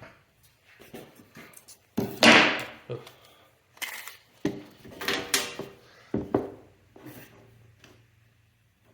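Workshop handling noise: a string of wooden and metal knocks, clunks and scrapes as a table saw's fence and a wooden panel are moved and set. The loudest knocks come about two seconds in and again around five and six seconds. The saw is not running.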